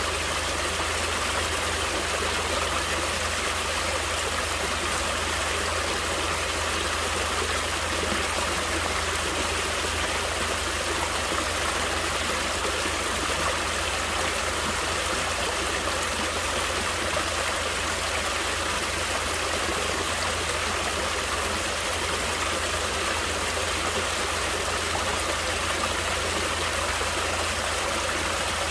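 Natural running water flowing steadily, an even unbroken rush.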